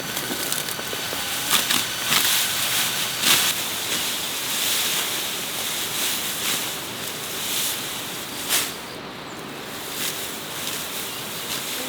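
Scattered knocks and clicks at irregular intervals over a steady hiss.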